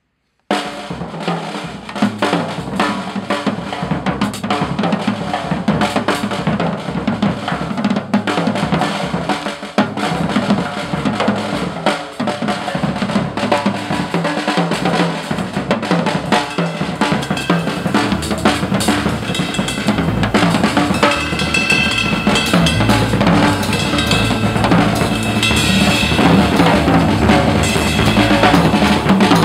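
Drum kit played busily, bass drum and snare hits in quick succession, along to a recorded backing track with bass guitar; the bass notes grow stronger near the end.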